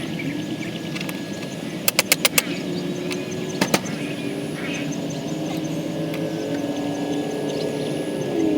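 Sharp metal taps on the blade spindle housing, four in quick succession about two seconds in and two more a moment later, as the failed lower bearing's outer race is worked out. Under them runs a steady low droning hum.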